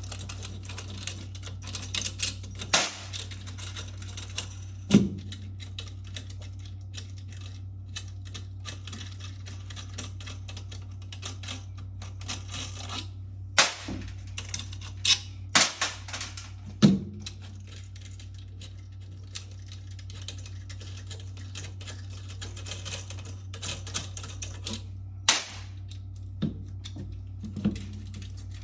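Scattered metallic clicks, taps and clinks of hand tools and bolts being worked on a washing machine's direct-drive motor, with a few sharper knocks, over a steady low hum.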